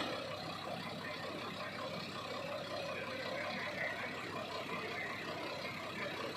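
Steady background noise of motor vehicles and traffic.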